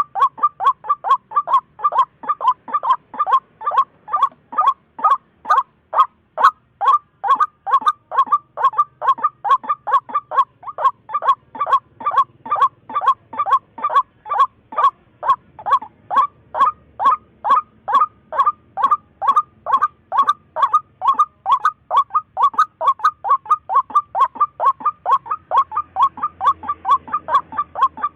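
Waterhen calling: one short note near 1 kHz repeated over and over at an even pace, about three or four notes a second, without a pause.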